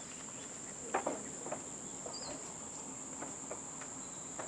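Outdoor ambience: a steady high-pitched insect drone, with a few short knocks and a faint chirp over it, the loudest knock about a second in.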